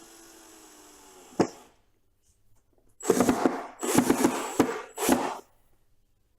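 Power drill motor spinning down with a falling whine after driving a screw. A sharp click comes about a second and a half in, then three loud bursts of rattling, scraping noise.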